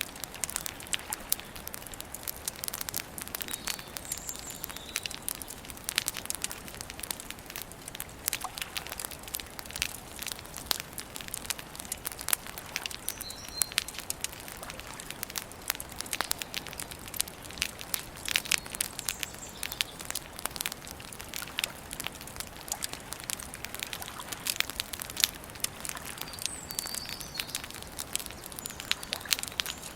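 Campfire crackling and popping, with many irregular sharp cracks over a steady low hiss. Birds chirp briefly a few times in the background.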